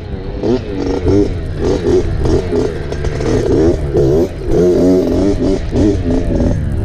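Dirt bike engine revving on the trail, its pitch climbing and falling back again and again as the throttle is worked and gears change.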